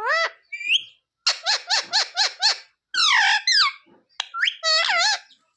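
Pet green parrot vocalising: loud, shrill, arching calls. About a second in comes a quick run of about six short notes, followed by longer squawky calls.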